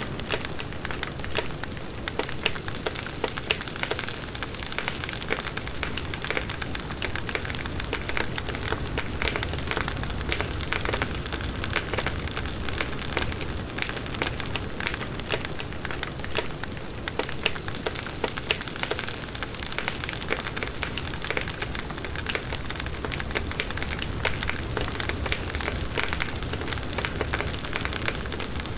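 Firewood burning in a campfire, crackling and popping with many small snaps over a steady hiss.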